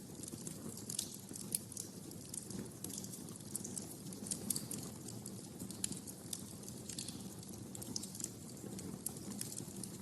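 Wood fire in a fireplace crackling: many sharp, irregular pops and snaps, several a second, over a low steady rumble from the flames.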